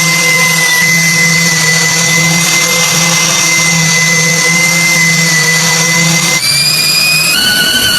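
An electric power tool running with a steady high whine over a rushing hiss. The pitch jumps abruptly about six and a half seconds in and shifts again near the end.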